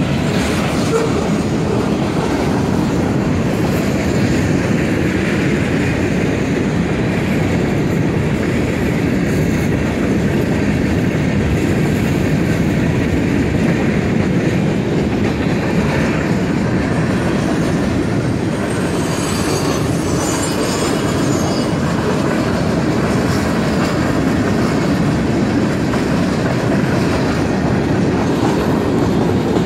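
Freight train cars rolling steadily past a grade crossing, their wheels running over the rails in a continuous, even rumble.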